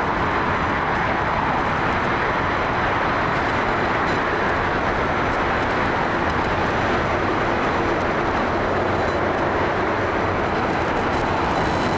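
Steady rushing roar of a Boeing 787 Dreamliner's jet engines as the airliner moves on or near the runway. It holds one even level, with no clear rise or fall.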